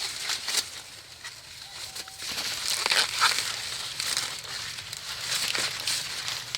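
Leaves and twigs rustling and crackling, with scattered sharp snaps, growing busier about two seconds in.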